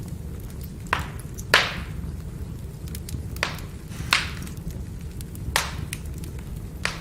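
Wood fire burning: a steady low rumble of the flames with a scatter of small crackles and six sharp pops from the burning logs, the loudest about one and a half seconds in.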